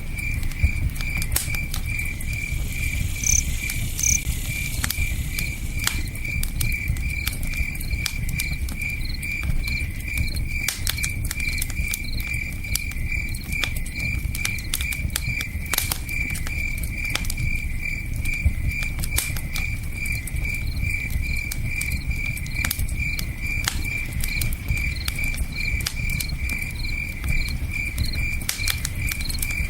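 Campfire crackling with scattered sharp pops, over the steady low rush of a river. A cricket chirps in an even rhythm, about two chirps a second.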